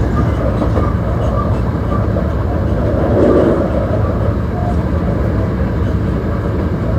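Hankyu 1300 series electric train running at speed, heard from inside the car: steady wheel-on-rail rumble with some clatter over rail joints, swelling slightly about three seconds in.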